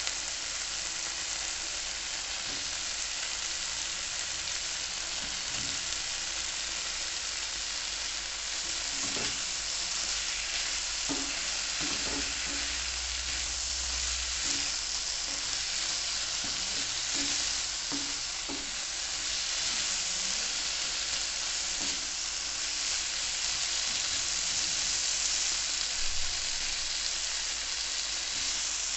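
Pieces of snakehead (shol) fish frying in oil with potatoes and spice paste in a non-stick pan: a steady sizzle, with a wooden spatula scraping through the pan now and then as it is stirred.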